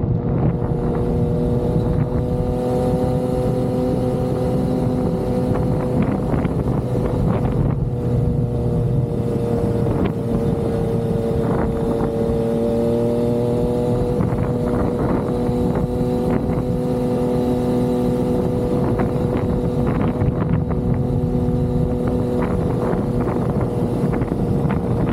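Yamaha XSR900's inline three-cylinder engine running at a steady cruise, its pitch dipping slightly and recovering about halfway through, with wind and road noise.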